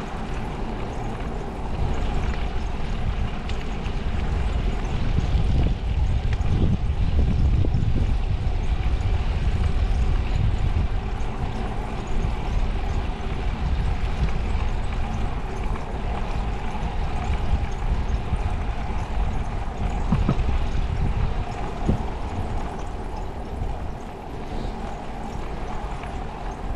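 Wind buffeting the microphone with road noise from a moving bicycle, a continuous low rumble that swells and eases, loudest about a third of the way in.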